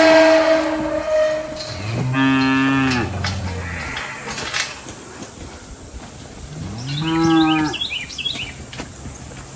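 Cattle mooing: two separate long moos, the first about two seconds in and the second about seven seconds in, each rising and then falling in pitch.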